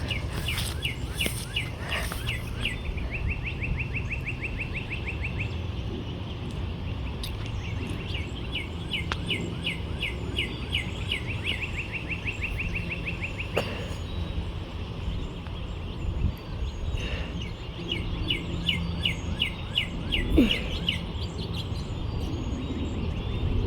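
Small birds chirping in quick repeated runs of rapid notes, several runs across the stretch, over a steady low outdoor rumble.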